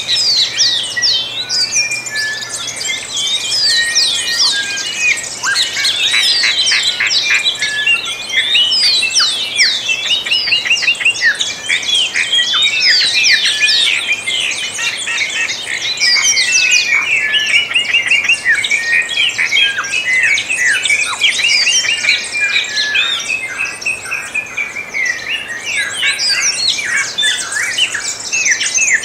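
Many songbirds singing at once in a dense, unbroken chorus of overlapping quick chirps, whistles and trills.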